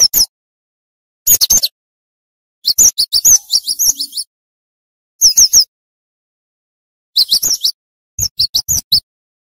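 Cinereous tit (gelatik batu) in full song: about six short bursts of rapid, sharp, down-slurred whistled notes, separated by gaps of silence. It is a lure call used to draw in other tits.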